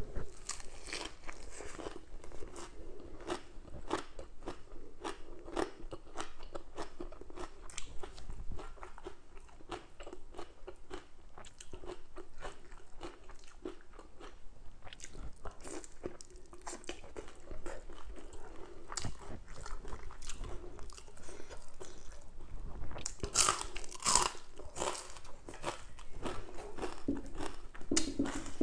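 A person chewing and crunching mouthfuls of crisp lettuce leaf, green papaya salad and fried fish. Irregular crunches run throughout, with the loudest bites about 23 to 24 seconds in.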